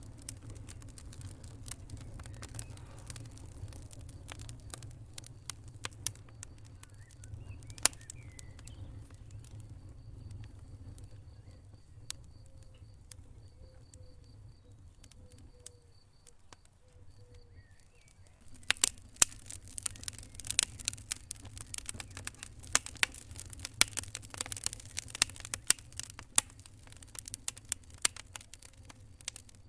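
Wood fire burning in a fireplace: a steady low rumble with sparse pops and crackles that turn into dense, loud crackling about two-thirds of the way through.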